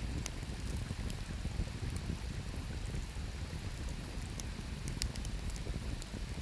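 Wood campfire crackling, with a few sharp pops at irregular moments, over the steady low rushing of river water.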